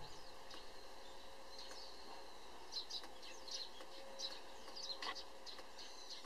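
Small birds chirping outdoors, a scatter of short, high, quick calls over faint background noise, busiest in the middle.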